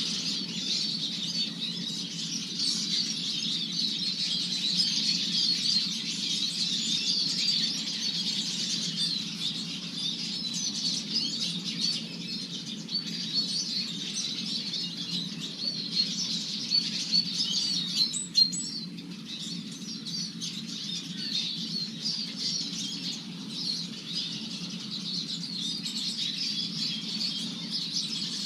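Small garden songbirds chirping and twittering continuously in a dense, overlapping chatter, over a steady low hum.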